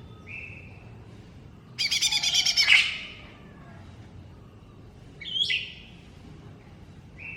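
Cucak ijo mini (small green leafbird) singing: a short whistled note, then a loud, fast buzzy trill lasting about a second, followed by two short stepped whistles a couple of seconds apart.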